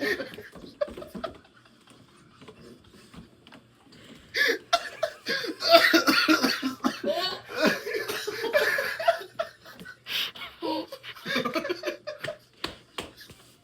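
Several men laughing and coughing, loudest in a burst of laughter and coughs from about four and a half to nine and a half seconds in; the coughing is a reaction to eating a jalapeño dosed with a 2-million-Scoville hot sauce.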